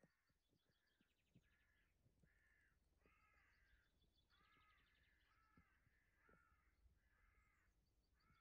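Faint bird calls: one bird calls over and over, about once a second, while a quicker, higher trill from another bird comes and goes in the middle.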